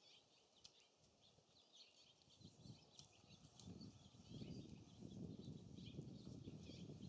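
Small songbirds chirping in many short, high notes, with wind gusting on the microphone and building into a low rumble from a couple of seconds in.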